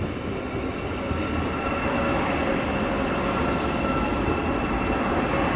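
A train running: a steady rail rumble with a faint steady whine above it.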